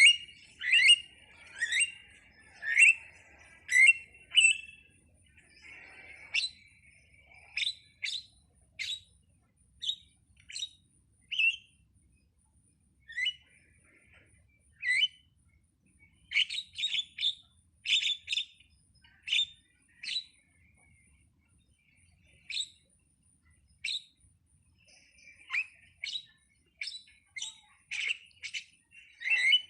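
Jalak (an Indonesian starling) calling: short, sharp, loud notes in runs, often about one a second, broken by pauses of a few seconds.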